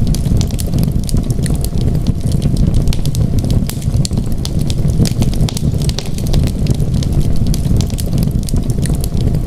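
Wood fire crackling in a fireplace, many sharp pops and snaps in quick succession over a steady low rumble.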